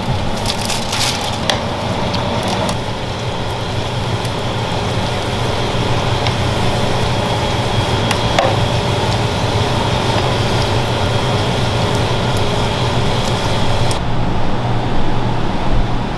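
Wood fire crackling and popping under a spit-roasting rack of whole chickens, over a steady machine hum. The clicks are thickest in the first few seconds.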